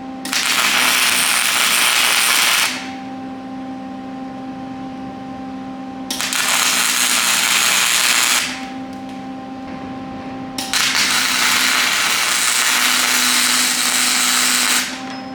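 Wire-feed (MIG) welding arc crackling in three runs, about two and a half, two and four seconds long, tack-welding a 3/16-inch steel plate table in place. A steady hum is heard between the runs.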